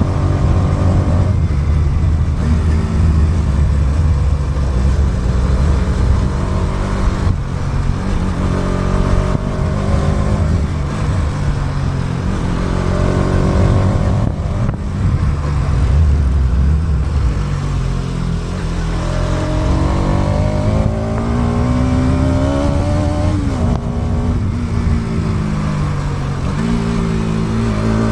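Motorcycle engine running under way, picked up by an action camera's built-in mic along with heavy wind rumble. About two-thirds through, the engine note climbs steadily for a few seconds, then drops abruptly and settles into a steady note.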